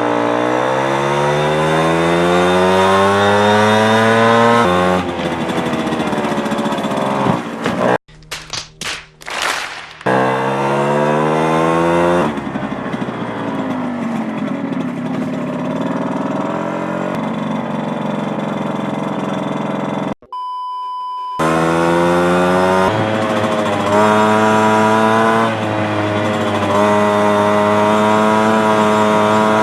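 Piaggio Ciao moped's two-stroke engine with a 65cc kit and Giannelli City Power exhaust, running and revving: the pitch climbs over the first few seconds, then holds and shifts at several cuts. The engine sound breaks off for about two seconds at about 8 s, and a steady beep sounds for about a second around 20 s in.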